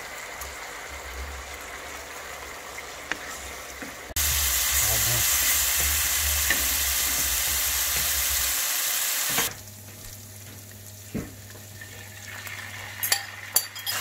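Stir-fry sizzling in a non-stick wok as it is stirred with a wooden spatula, in three short cuts. First beef and shrimp in their juices, then minced garlic frying louder in oil, then raw sliced beef more quietly, with a few knocks near the end.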